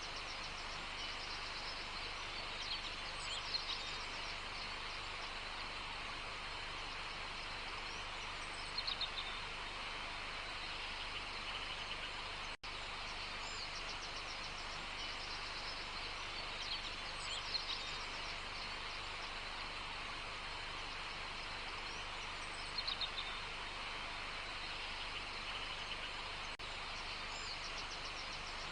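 Wild birds calling now and then: short groups of quick chirps four times, over a steady background hiss of natural ambience.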